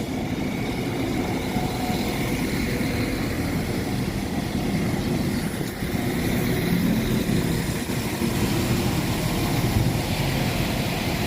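Northern Ireland Railways diesel multiple unit train close by, its underfloor diesel engines running with a steady hum that swells a little now and then.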